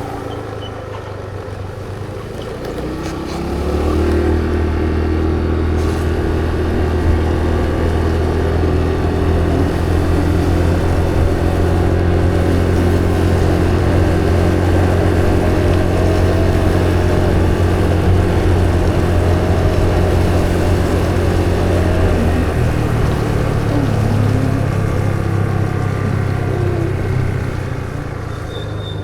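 A vehicle engine running steadily. It grows louder about four seconds in, shifts to a higher note a little over twenty seconds in, and eases off near the end.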